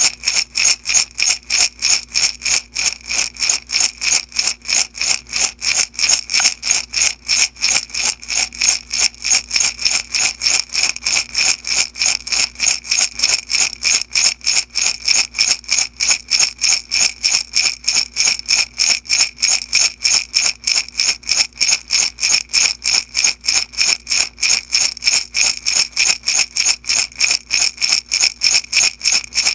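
Beads shaken back and forth in a glass jar, a steady rattling rhythm of about three shakes a second.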